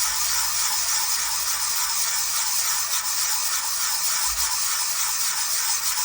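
Motorcycle water pump casing rubbed flat on emery paper in circular motions, a steady abrasive hiss, to true the gasket face so the coolant seal holds.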